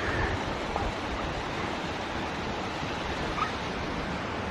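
Waterfall rushing steadily, with a few faint short high-pitched sounds over it.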